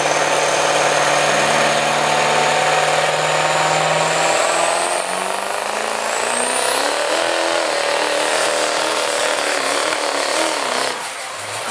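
Pulling truck's engine running hard under load as it drags the sled down the track. Its steady note drops about four seconds in, and a high whistle rises around six seconds in.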